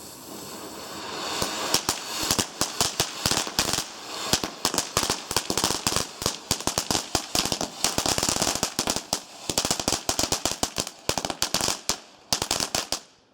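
Lit garden firework hissing as it gets going, then crackling with a dense run of sharp cracks and pops, several a second, for about eleven seconds before cutting off abruptly near the end.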